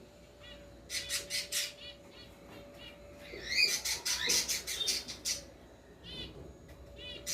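Mixed flock of caged cockatiels, budgerigars and zebra finches chirping and calling. Loud bursts of rapid, rasping calls come about a second in and again from about three and a half to five seconds, with short repeated chirps between.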